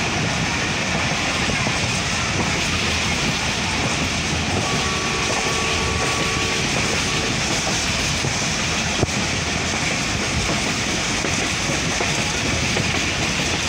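Passenger coach of an express train running at speed, heard through an open window: a steady rumble and rush of wheels on the rails and wind. A faint steady tone is heard for a couple of seconds about five seconds in, and a single sharp click comes about nine seconds in.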